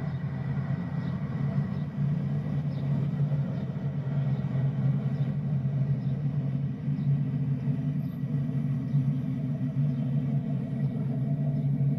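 An engine running steadily at idle, a low, even rumble.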